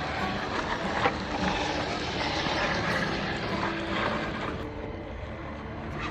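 A scale RC rock crawler's small electric motor and drivetrain running steadily as the truck is driven over the trail.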